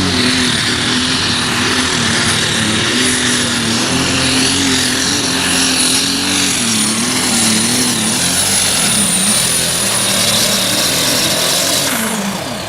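Competition pulling tractor's engine running flat out through a pull, with a steady high whine over an engine note that wavers up and down. Near the end the whine stops and the engine note falls away.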